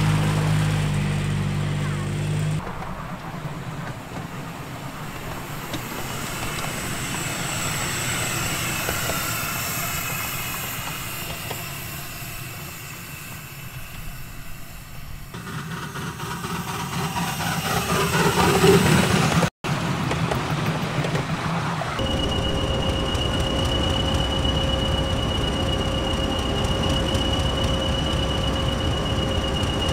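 A train running on the rails, heard as a rumbling noise in several spliced-together stretches with a brief dropout about twenty seconds in. In the last eight seconds there is a steady high squeal, like wheels grinding on the rails.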